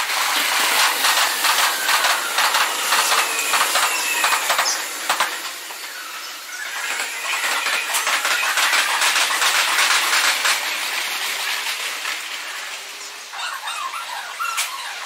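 Meitetsu 2000 series μSKY electric train running past over rail joints and points: a dense, rapid clatter of wheel clicks that eases off about five seconds in, then a second spell of clatter with faint gliding whines from about seven to ten seconds.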